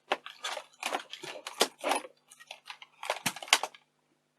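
Small plastic and metal camcorder parts being handled: clusters of quick clicks, scrapes and rattles that stop shortly before the end, over a faint steady hum.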